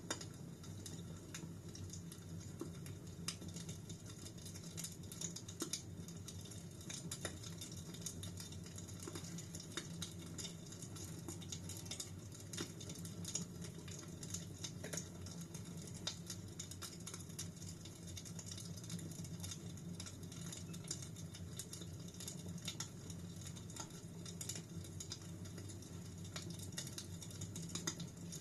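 Fire in a fireplace crackling: irregular sharp snaps and pops, several a second, over a steady low rumble of the flames.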